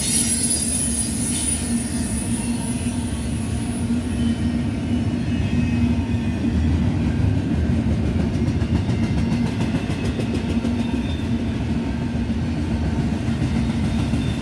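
Double-stack intermodal freight train's well cars rolling past: a steady, loud rumble of steel wheels on rail with a low hum. A faint high wheel squeal dies away in the first moment, and light rhythmic clicking of wheels over rail joints comes through about two-thirds of the way in.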